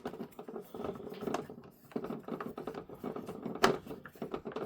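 Small screwdriver turning a screw in a plastic toy car body: a busy run of small scratchy clicks and scrapes, with one sharper click about three and a half seconds in.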